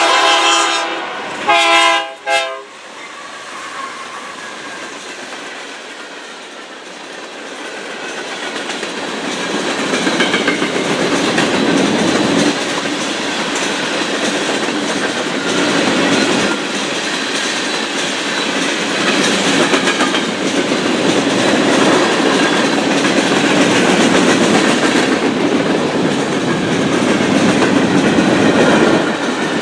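Freight train locomotive horn sounding a long blast and then a shorter one. Then the locomotives and freight cars roll past, with a rumble and wheel clatter that grows louder and holds steady.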